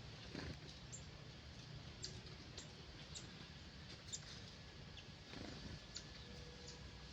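Faint, brief high-pitched bird chirps, single notes roughly once a second, over a steady low background rumble.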